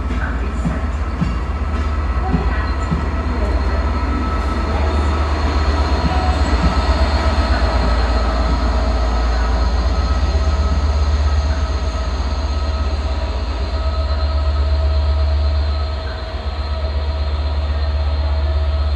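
Diesel train running past close by: a loud, steady low rumble with a steady whine above it, briefly easing about sixteen seconds in.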